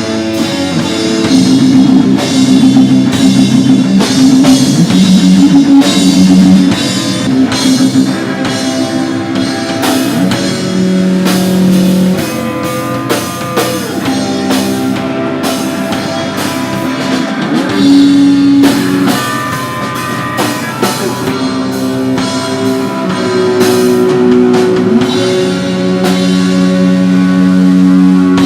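Live rock music: a drum kit and guitar playing loudly, with long held low notes under steady drum hits.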